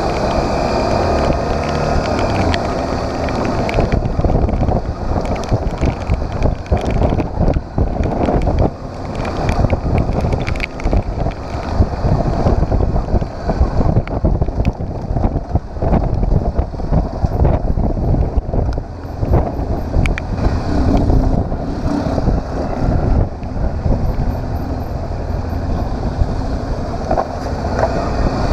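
Motorcycle engine running under way with heavy wind buffeting the camera microphone, and irregular knocks and gusts throughout.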